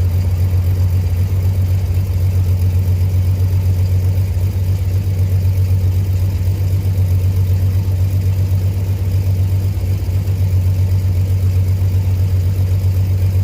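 1970 Dodge Swinger's Slant 6 inline-six engine idling steadily in the cold, a low, even drone. It is barely idling, just after a cold start at about -4°.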